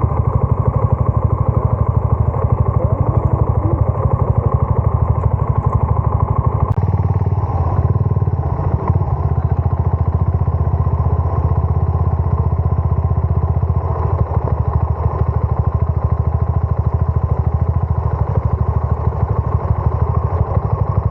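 Suzuki Gixxer 250's single-cylinder engine running steadily under way, with dense, even pulsing. The sound shifts abruptly about seven seconds in.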